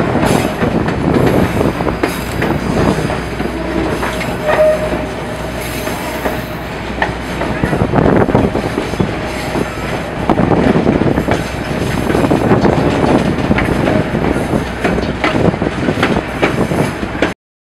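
White Pass and Yukon narrow-gauge passenger coaches rolling around a mountain curve, heard from alongside the train: a steady rumble with irregular clatter and knocks of the wheels on the rails. A faint wheel squeal comes about four to five seconds in, and the sound cuts off suddenly near the end.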